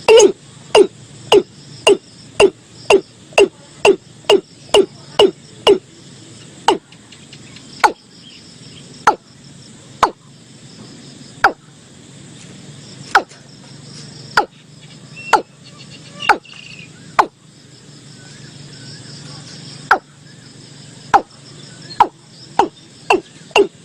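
Watercock calling: a series of short hollow notes. They come fast at first, about three a second, slow to roughly one a second through the middle, then quicken again near the end. Faint insect chirring runs underneath.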